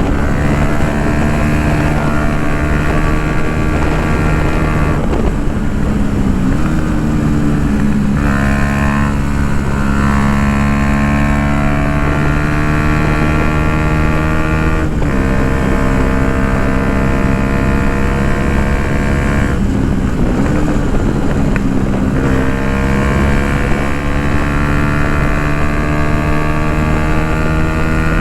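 Yamaha MT-125's single-cylinder four-stroke engine running loud through an Akrapovic full exhaust while riding, its pitch held fairly steady for stretches. Several brief drops and recoveries in revs come about 5, 7, 15, 20, 22 and 28 seconds in.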